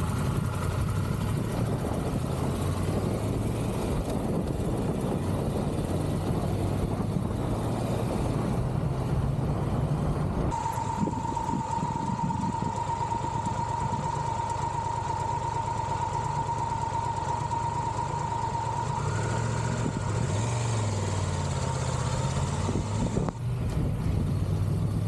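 Triumph Tiger 1200 GT Pro's three-cylinder engine running on the move, with road and wind noise. About ten seconds in, the sound changes abruptly and a steady high whine joins it for some thirteen seconds, and the engine note rises and falls briefly near the end.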